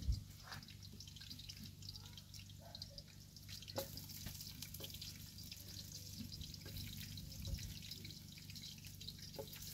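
Onions frying in oil in a cooking pot: a faint, irregular crackling sizzle with scattered small ticks, over a steady low hum.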